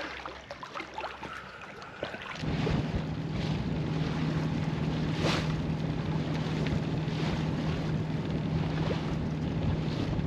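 A boat engine running steadily at a constant speed, starting abruptly about two seconds in, with wind buffeting the microphone and water noise.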